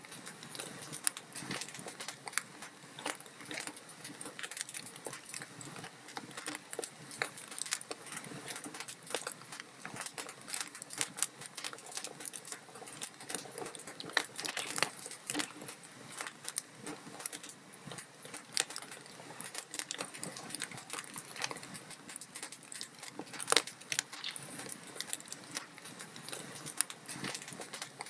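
Log fire crackling in a fireplace: a steady soft hiss with many small irregular pops and snaps. A few snaps stand out, the sharpest about five sixths of the way in.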